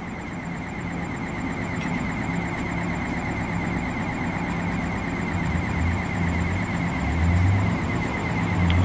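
NJ Transit double-deck commuter coaches rolling slowly past as the train pulls out of the station: a steady rumble with a high, even whine, growing gradually louder, with deeper rumbling swells in the second half.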